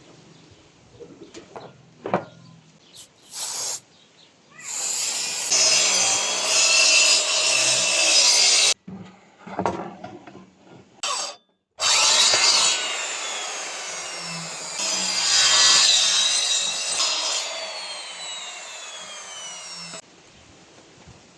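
Power saw cutting elm wood in short edited clips, with abrupt cuts between them. In the second half a whine falls in pitch several times.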